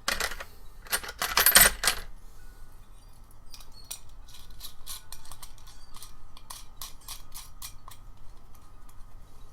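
Small metal parts and tools clattering and clinking as they are handled, loudest in the first two seconds, then a run of light metallic clicks, about two to three a second.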